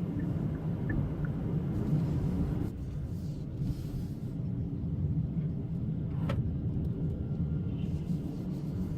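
Hyundai Kona's 1.6 T-GDI turbocharged four-cylinder petrol engine, warmed up, with road noise from the car driving in town: a steady low rumble. A single short click comes about six seconds in.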